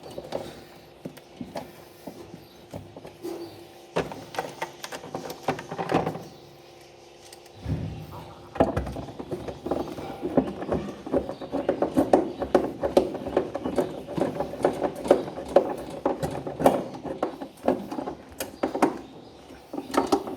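Screws being driven one after another into the tub tray of an Electrolux LTE12 top-loading washer: a few separate clicks and knocks, then from about eight seconds in a long run of rapid clicking and tapping from the screwdriver and screws.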